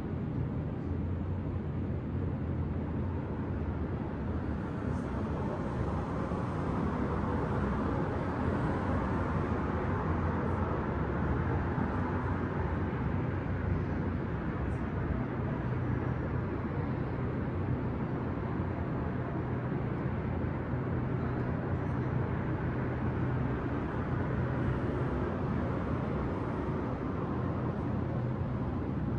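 Steady night-time city traffic noise: a continuous low rumble and hum of distant vehicles, swelling louder for several seconds around the middle.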